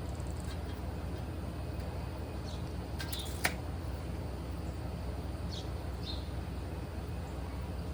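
A steady low mechanical hum, with a few short bird chirps and one sharp click about three and a half seconds in.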